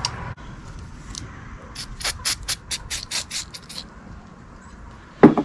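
Hand work on the fasteners of a Renault starter's solenoid: a quick run of about ten short, sharp strokes, about five a second, lasting some two seconds, then a single loud knock near the end.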